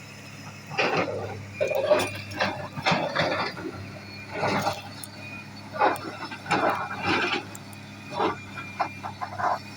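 Hydraulic excavator's engine running with a steady low hum, under irregular clinks and clatter of stone on stone and steel, as granite rock is handled.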